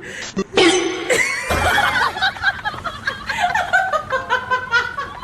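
People laughing in short, choppy bursts, with a loud noisy outburst about a second in.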